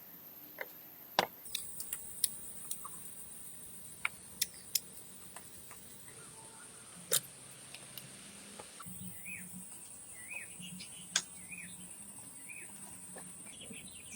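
Forest ambience: a steady high-pitched insect drone, with scattered sharp clicks throughout and a run of short bird chirps in the second half.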